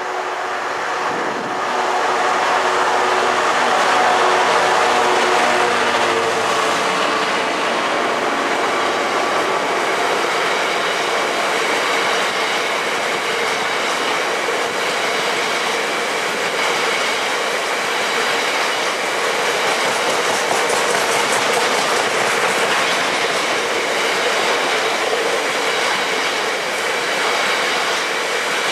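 GBRf Class 66 diesel locomotive 66733, with its two-stroke EMD V12 engine, passing close by and hauling a coal train. The engine note comes and goes in the first few seconds. Then the long rake of loaded coal wagons rolls steadily past, wheels running over the rail joints.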